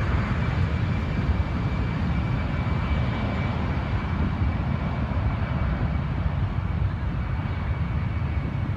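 Airbus A380 jet airliner on approach, its engines giving a steady low roar with a thin high whine on top.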